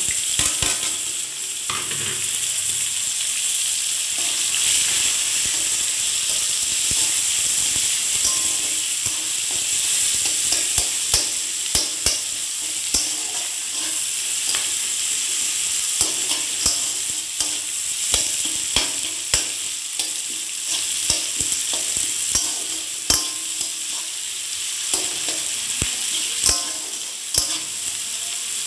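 Chopped onion and tomato sizzling in hot oil in a kadai with bay leaves. They are stirred with a metal spatula that scrapes and clicks against the pan, the clicks coming more often after the first several seconds.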